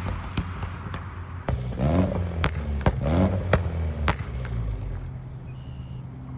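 A vehicle engine running with a low, steady hum, broken by a series of sharp clicks and knocks, with two short rising sounds in the middle.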